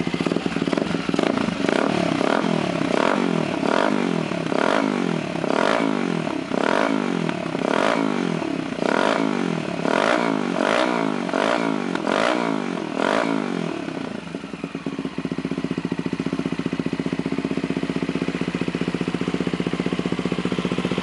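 Honda FTR250's single-cylinder engine heard through its muffler, the throttle blipped again and again, about once a second, each rev rising and falling. About fourteen seconds in it settles to a steady idle.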